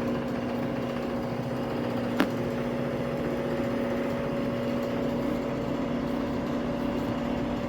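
Samsung AddWash washing machine spinning its drum on the digital inverter motor: a steady hum with a fixed-pitch whine. One short click about two seconds in.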